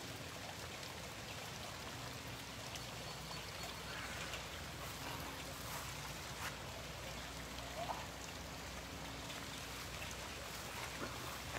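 Steady rain falling: an even, continuous hiss with scattered drop ticks.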